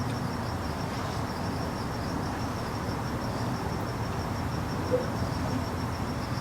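An insect chirping in a fast, steady pulse over a low background hum, with one faint tap about five seconds in.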